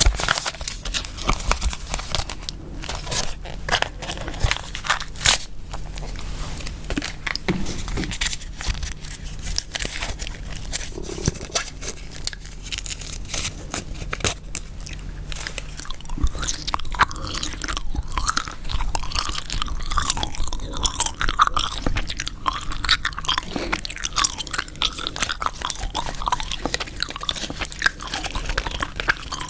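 Close-miked gum chewing: a steady run of wet mouth clicks and smacks.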